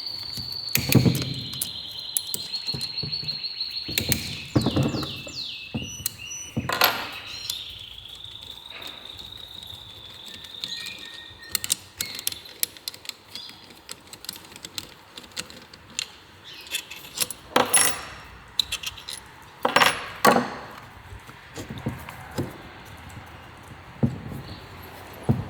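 Scattered metallic clinks, knocks and thunks of tools and engine parts being handled, with louder strikes about a second in, around four and seven seconds, and twice near eighteen and twenty seconds. A steady high-pitched whine runs under the first half and then stops.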